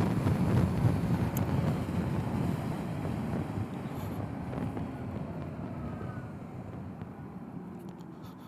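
Wind rush and road noise from a Zero SR/F electric motorcycle riding at speed on fast roads, fading out steadily and then cutting off at the end.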